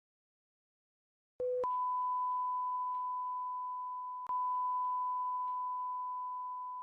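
Electronic beep sound effect: after silence, a brief lower tone, then a long steady high-pitched beep that fades slowly, with a click about four seconds in where the beep restarts.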